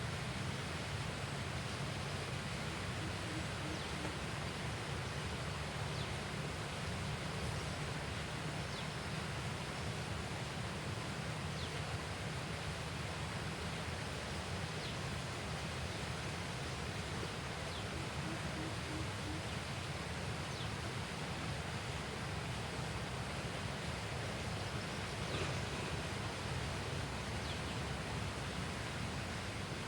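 Steady riverside outdoor ambience: an even rushing noise with a few faint, brief high chirps scattered through it.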